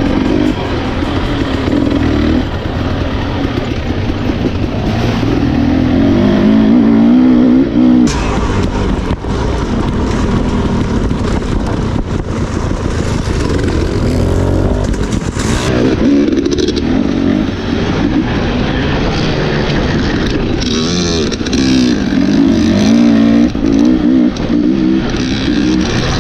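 Husqvarna enduro dirt bike engine being ridden hard on a trail, its pitch rising and falling as the throttle is opened and closed, with a few sharp knocks.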